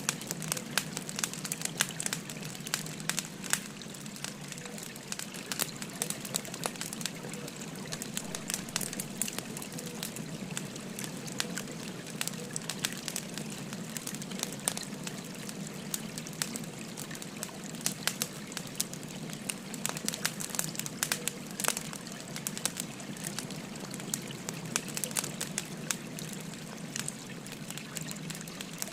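A wood fire crackling, with many sharp pops and snaps scattered throughout, over the steady babble of a flowing stream.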